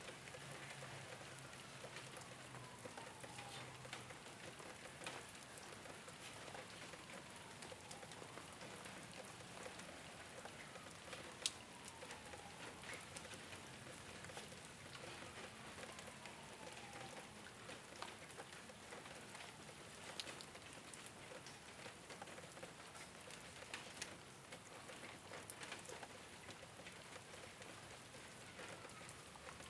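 Rain falling on a rooftop: a steady patter with many separate drops ticking, one sharper drop hit about eleven seconds in. A faint falling tone recurs about every four seconds.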